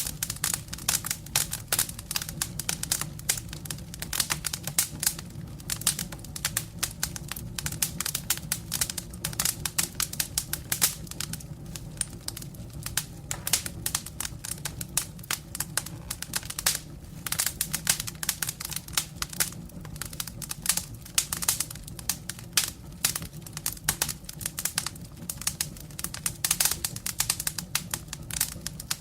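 Firewood burning in a fireplace: dense crackling, sharp snaps at uneven intervals, over a steady low rumble.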